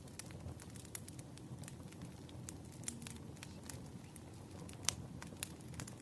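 Wood fire crackling, with irregular sharp pops over a low, steady rumble of flames; the loudest pop comes about five seconds in.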